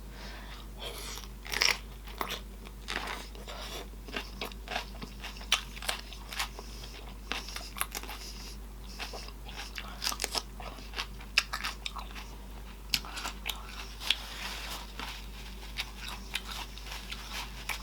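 A person chewing and smacking their lips while eating sausage in butter sauce, a run of irregular wet clicks and smacks, a few a second.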